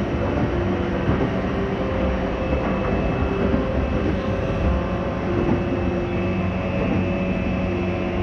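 Inside a JR East E235-1000 series electric train running along: a steady rumble of wheels and running gear, with a low hum that comes and goes.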